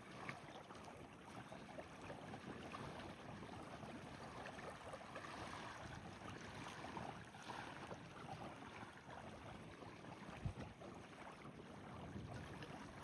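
Faint steady outdoor noise of wind and water on a lake, with a single soft knock about ten and a half seconds in.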